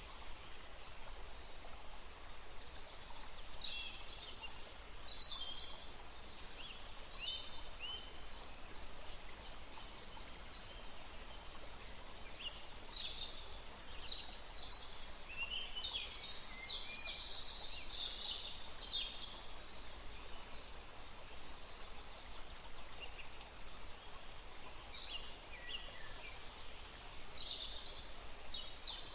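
Birds chirping in quick, high, mostly down-sliding calls, thickest in the middle, over a steady rushing hiss of wind or water.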